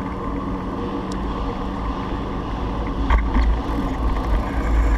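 Steady low rumble of wind and road noise while riding, with a faint steady hum underneath and a few light clicks about three seconds in.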